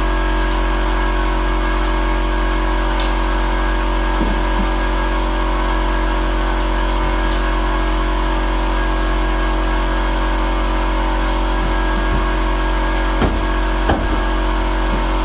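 Air compressor motor running steadily with a constant hum, not cutting off when it should already have shut off, which the owner takes to mean it "ain't doing too good". A couple of light taps near the end.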